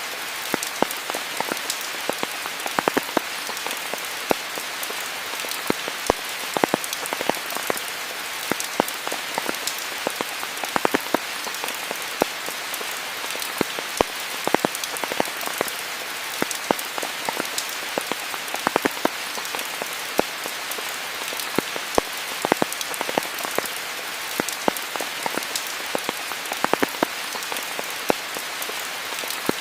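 Steady rain falling in a rainforest: an even hiss of rainfall with many close, distinct drops tapping at irregular moments throughout.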